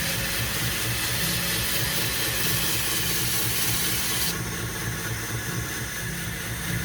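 Belt grinder running with a 120-grit ceramic belt, its motor humming steadily under a loud grinding hiss as a knife edge is pressed to the belt to cut a new bevel. About four seconds in the blade comes off the belt and the hiss drops, leaving the grinder running.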